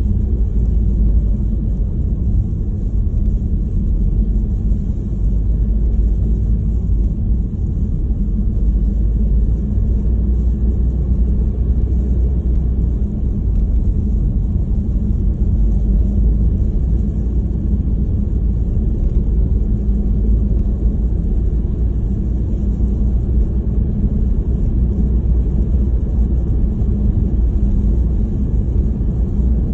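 Steady, loud low rumble of wind buffeting the microphone in a snowstorm, with no separate events.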